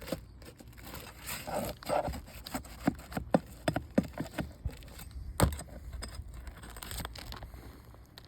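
Nails being pried out of asphalt roof shingles: scraping, then a run of sharp, uneven clicks and knocks as the tool works under the shingle tabs and against the nail heads.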